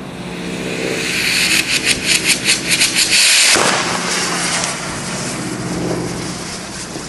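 An engine running steadily, with a louder pulsing, hissing rush over it in the first half that cuts off sharply about three and a half seconds in.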